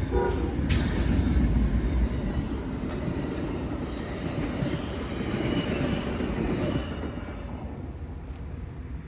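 Amtrak train running past on the rails, a steady rumble that fades away over several seconds, with faint wheel squeal. Its horn cuts off right at the start.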